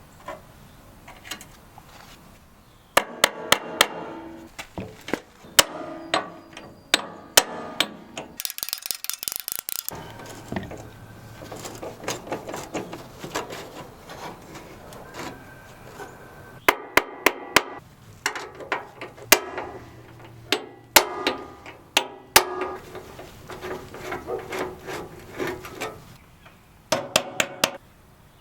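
Hammer tapping, in quick runs of sharp strikes with pauses between. There is a brief hissing rush about nine seconds in.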